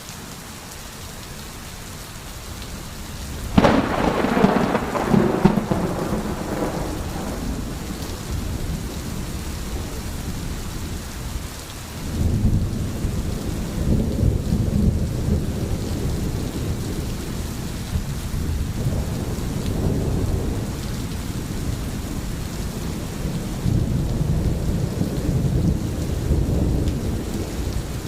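Steady rain from a thunderstorm. A sharp thunderclap breaks about three seconds in and fades out, and long, low rolls of thunder rumble on through the second half.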